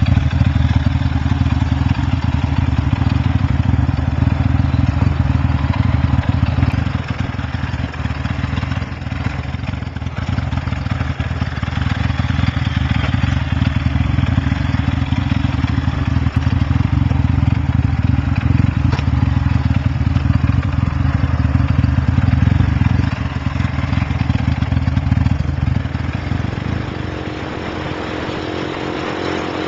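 Lifan LF200-B motorcycle's single-cylinder engine running through an Iridium exhaust, a steady loud exhaust note. Near the end it settles to a quieter, even idle.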